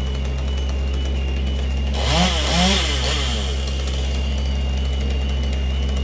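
A large engine runs steadily throughout. About two seconds in, a chainsaw revs up and drops back twice in quick succession, a short loud burst of saw noise over the drone.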